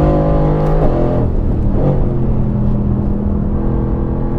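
Mercedes-AMG GT-R's twin-turbo V8 heard on board under way, its pitch stepping about a second in and again near two seconds, then holding steady.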